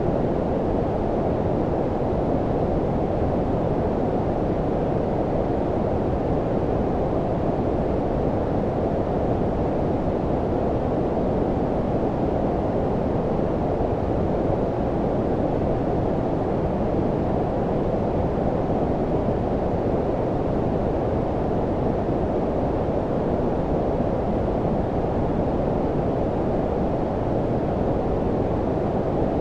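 Steady low-frequency white noise, filtered so the highs are cut away: a deep, warm, even hiss like brown noise, unchanging throughout.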